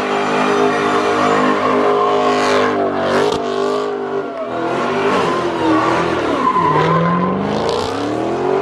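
A car engine revving hard with tires squealing, as in a burnout or donuts. The revs hold high, drop about three seconds in, then rise and fall repeatedly.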